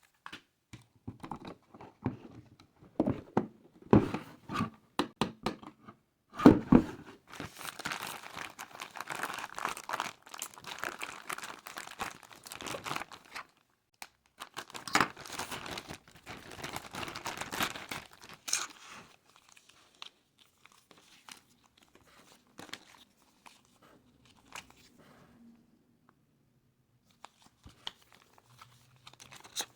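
Toy packaging being handled and opened: crinkling and tearing in two long stretches, with scattered clicks and taps before them and only faint light handling near the end.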